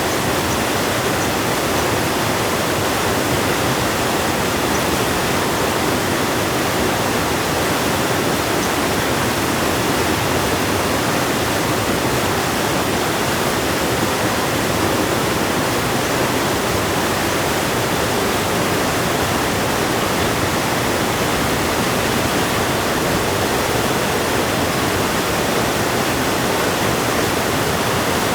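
A river rushing in a steady, unbroken flow of water noise.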